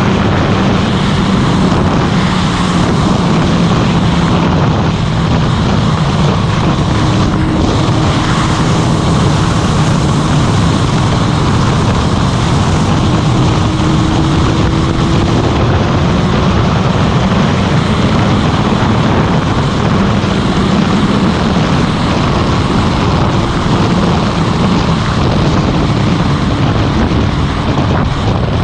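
Motorcycle engine running at a steady cruising speed, mixed with heavy wind rush on the microphone while riding.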